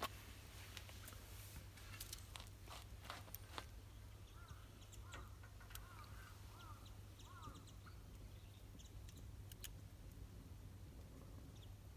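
Very quiet outdoor ambience with a low hum. A few sharp crackles come in the first few seconds and once more near the end, and a bird gives a run of short chirps in the middle.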